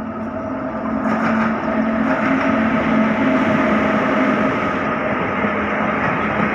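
Electric locomotive-hauled express train approaching, getting louder over the first second and then running on as a steady hum over a rolling rumble.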